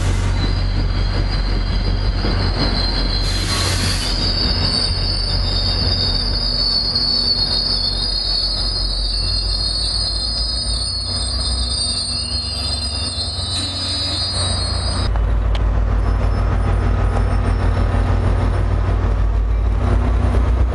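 NJ Transit diesel-hauled commuter train squealing steadily and high-pitched as it slows into the station, the squeal cutting off about fifteen seconds in. A low diesel rumble runs throughout and grows louder once the squeal stops.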